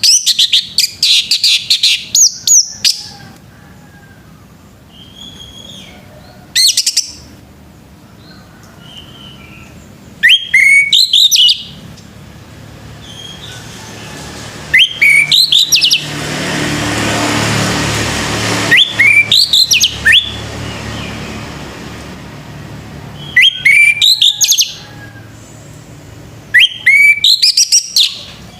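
Male orange-headed thrush singing: about seven loud phrases of quick, sweeping whistled notes a few seconds apart. A rushing noise swells and fades in the middle.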